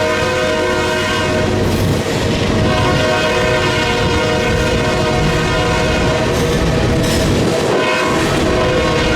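Freight locomotive air horn sounding a multi-note chord in long blasts, with short breaks about two seconds in and again near eight seconds. Under it run the rumble and clatter of the passing train and gusting wind on the microphone.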